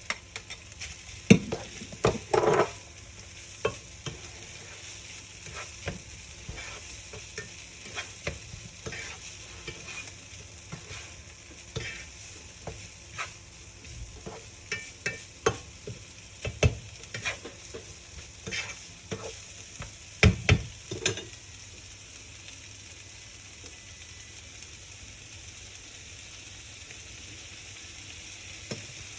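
Food sizzling in a frying pan while a utensil stirs it, with scattered clicks and knocks of the utensil against the pan. The knocking stops about three-quarters of the way through, leaving only the steady sizzle.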